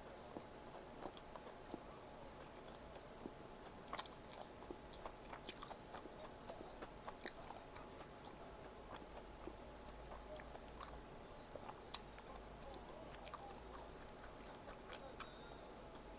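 A person eating Korean street food, chewing and biting quietly, with scattered small clicks and smacks of mouth and food throughout.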